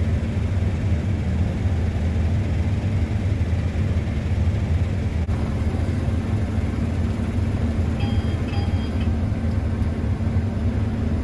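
Combine engine and machinery running with a steady low drone. A couple of faint short electronic beeps come about eight seconds in.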